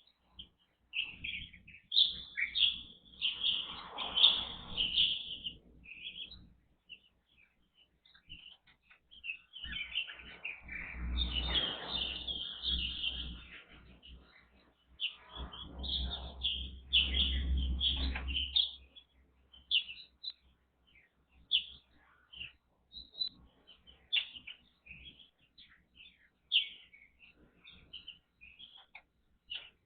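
Chinese bulbuls and Japanese white-eyes chirping, with many short, high calls throughout. Three longer stretches of low rumbling noise run underneath.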